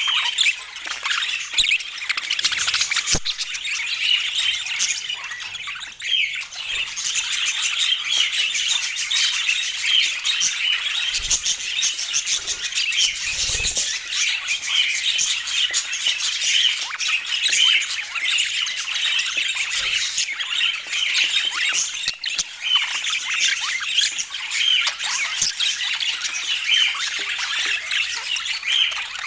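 Budgerigars chattering and chirping without a break, many short high calls overlapping.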